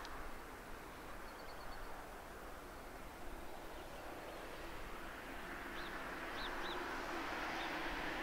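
Approaching diesel train, its engine drone and running noise growing steadily louder from about halfway through. Small birds chirp briefly about a second in and a few times more near the middle.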